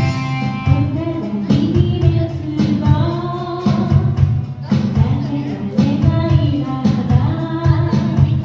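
A live band playing a song, a singer's voice carrying the melody over steady low accompaniment.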